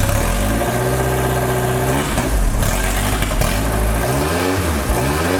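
Ford Formula 2000 race car engine running and being revved, the pitch rising and falling about three times as the throttle is blipped. The engine is cold and has no choke, so it is held on the throttle to keep it running.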